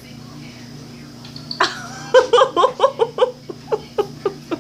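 A person bursting into laughter about a second and a half in, then laughing in quick repeated pulses, about five a second, that slow and fade.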